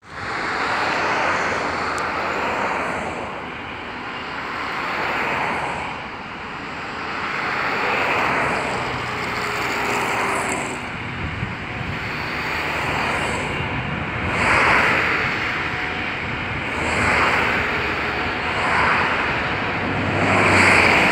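Distant freight train hauled by a 2TE25KM twin-section diesel locomotive: a continuous rushing rumble of engines and rolling wagons that swells and fades every couple of seconds.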